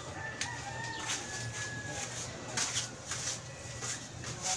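Sharp clinks and taps of tools on metal during a car repair, a few at uneven intervals. A bird's drawn-out call sounds faintly behind them in the first two seconds.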